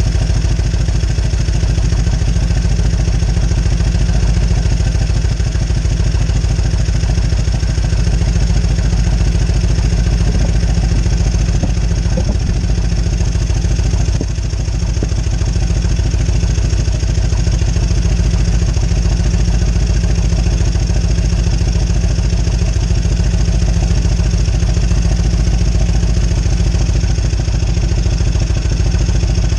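1998 Harley-Davidson Road King Classic's fuel-injected Evolution V-twin running at a steady speed, with a brief small dip about halfway through.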